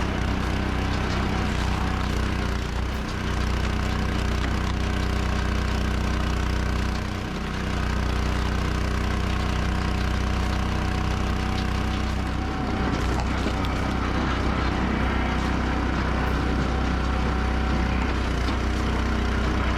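Engine of a firewood-processing machine running steadily, with a few slight dips in level.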